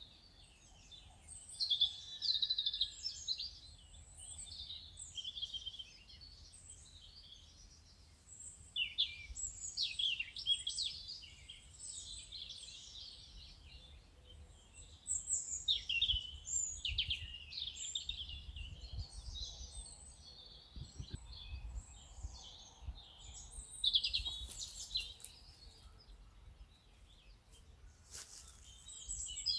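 Several songbirds chirping and trilling in bursts, over a faint low outdoor rumble.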